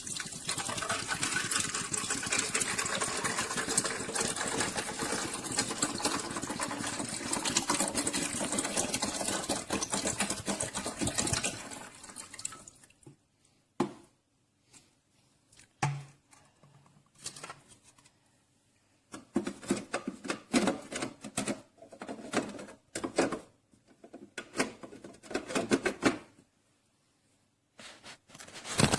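Keurig K-Classic single-serve coffee maker brewing: its pump buzzes and liquid streams into a cup for about twelve seconds, then it stops. Short, irregular sputters and gurgles follow, typical of the brewer pushing the last water and air through the pod.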